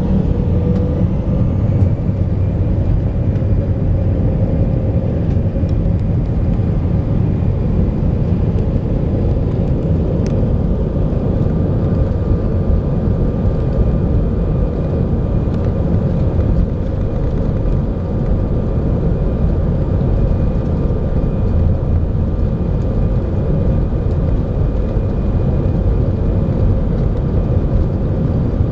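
Steady cabin noise inside an Airbus A318 jet airliner: an even, low rumble of the engines with faint steady whining tones above it.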